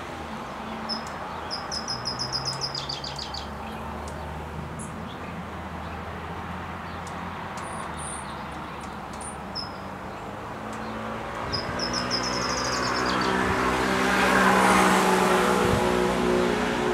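A small bird chirping in two quick runs of high notes over outdoor background noise, while a passing vehicle swells in from about two-thirds of the way through, loudest near the end.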